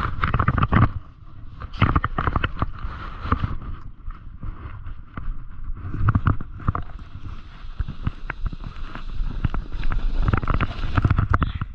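A board scraping and clattering over icy snow, with irregular knocks throughout and wind buffeting the microphone.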